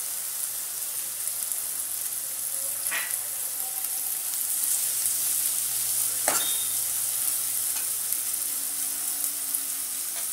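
Chopped tomatoes and spinach sizzling in hot oil in a metal kadai while being stirred with a steel ladle. The ladle knocks sharply against the pan twice, about three and six seconds in.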